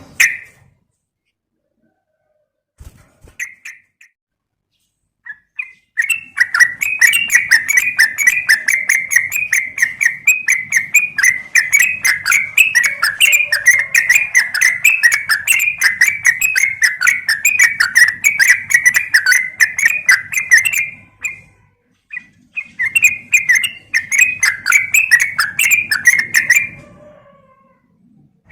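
Yellow-vented bulbul (trucukan) calling in a long, fast run of repeated chattering notes, pausing briefly and starting again. The recording is sold as a female calling a male, used as a lure.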